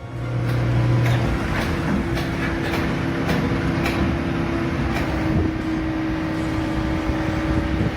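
A heavy vehicle or machine running, with a steady tone throughout, a lower tone in the first second or so, and scattered knocks.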